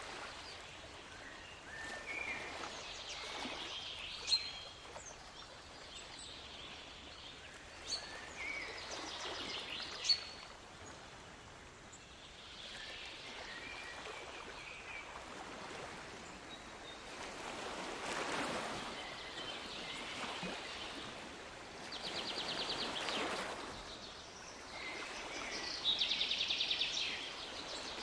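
Waves washing in and drawing back, swelling every few seconds, with birds chirping over them. A bird's rapid trill comes twice in the second half. A few sharp clicks fall in the first half.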